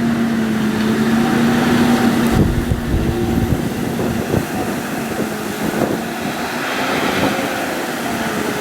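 Diesel engines of John Deere tractors running steadily as they work a silage pit, their tones shifting slightly in pitch. A burst of wind rumble on the microphone comes about two and a half seconds in.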